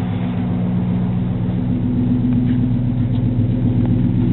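Ford F-150's V8 idling steadily through a single-chamber racing muffler, giving a deep, even exhaust note that grows a little louder near the end.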